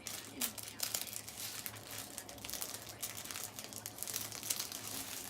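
Packaging crinkling and rustling as it is handled and pulled open: a dense, irregular run of crackles.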